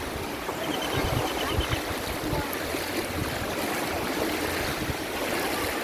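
Steady rushing of sea water, with wind gusting on the microphone.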